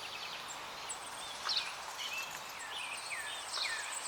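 Small birds chirping, a scatter of short chirps and quick falling calls over a steady outdoor hiss, with a thin high tone joining near the end.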